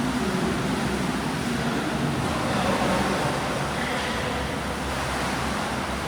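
Swimming pool ambience: a steady wash of splashing water from swimmers.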